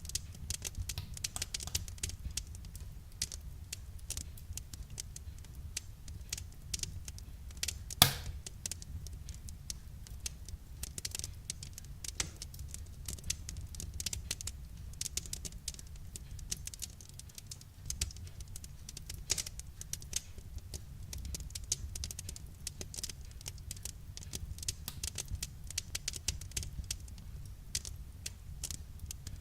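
Wood fire crackling continuously with many small snaps over a low rumble, and one louder pop about 8 seconds in.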